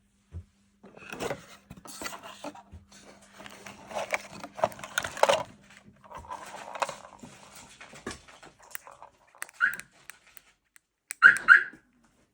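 A dog making noises for several seconds, then giving three short, loud barks near the end.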